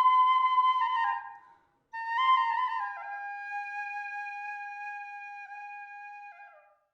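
Solo flute music: a long held note that bends downward with ornaments and fades, then a second phrase that opens with quick grace notes and settles on a long, lower held note before cutting off near the end.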